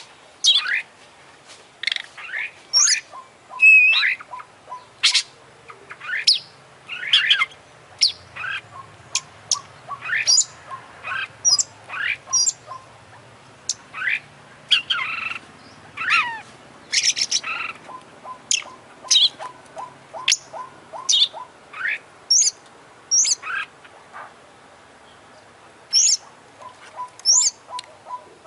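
Oriental magpie-robin (kacer) singing a fast, varied song of short chirps and sharp, high whistles, many sliding down in pitch, with hardly a pause. The song is rich in imitated calls of other birds.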